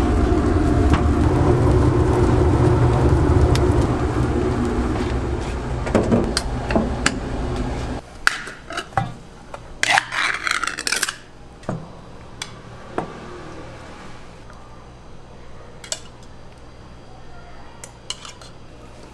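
A steady low rumble that cuts off about eight seconds in, followed by clinks and clatter of dishes and metal utensils, with a short hissing burst about ten seconds in.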